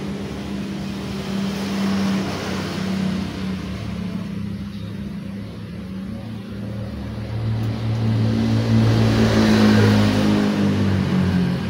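Road traffic: motor vehicles running past close by, with one swelling about two seconds in and a louder one passing about three-quarters of the way through.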